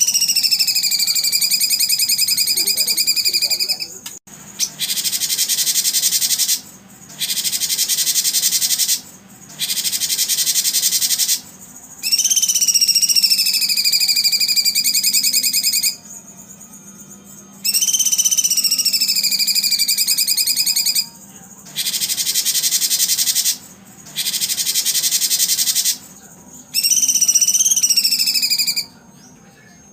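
Looped recording of animal calls used as therapy for songbirds. Whistled notes that drop in pitch and then hold alternate with dense, high, buzzing trills. Each phrase lasts two to three seconds, with brief pauses between them.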